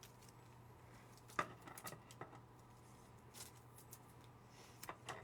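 Trading cards being handled and sorted: a few faint clicks and light rustles, the sharpest click about a second and a half in.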